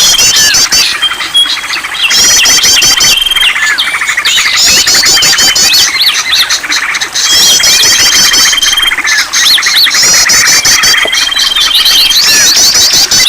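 Many songbirds calling at once in a dense mixed bird-lure recording: rapid high trills in repeated bursts and scattered chirps over a steady held whistle that comes back every few seconds.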